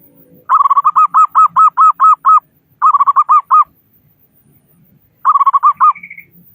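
Zebra dove (perkutut) calling: three phrases of rapid, evenly spaced cooing notes, a long one, a shorter one and a short one, the last ending in a brief higher note.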